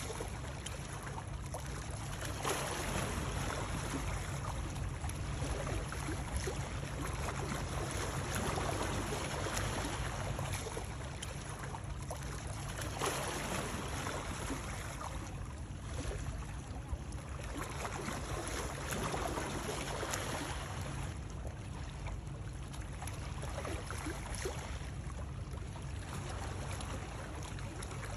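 Continuous running water, a steady rushing with gentle swells every few seconds over a low rumble.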